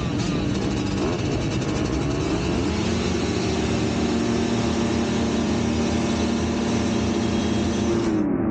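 Motocross bike engine running at held revs. Its pitch rises over about a second and a half, then stays steady.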